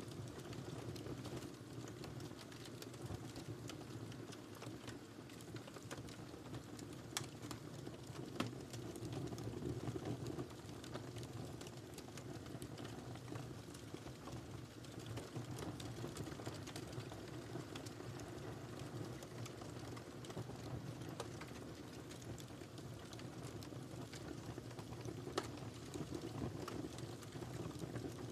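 Wood fire burning in a fireplace: a steady low rush of flame with light crackling throughout and a few sharper pops.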